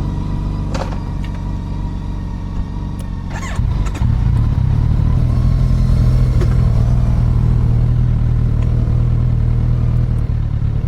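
Wind rumbling on the microphone of a moving vehicle, with the engine running underneath. It gets louder about three and a half seconds in, as speed picks up.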